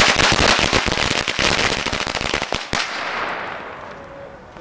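Firework crackling: a dense run of rapid sharp pops, ending in one louder crack after nearly three seconds, then fading away.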